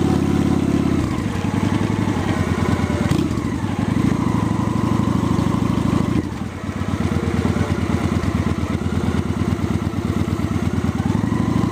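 Honda Shadow 750 V-twin motorcycle engine running at low speed. The sound dips briefly a little past halfway, then picks up again.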